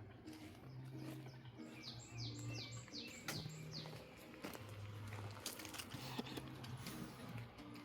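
A songbird singing a quick run of about six falling high notes, over soft background music with held low notes.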